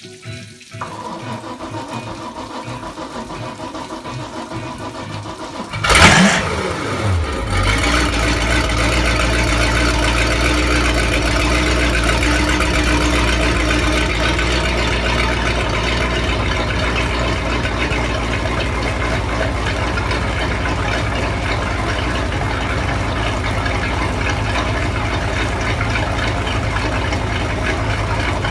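Carbureted MerCruiser 5.7 (350) V8 boat engine being cold-started after sitting for months. The starter cranks for several seconds, the engine catches with a loud burst of revs about six seconds in, and then it settles into a steady idle.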